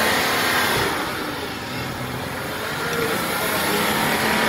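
Off-road 4x4's engine running hard. Its pitch rises and falls, easing off about a second in and picking up again about three seconds in.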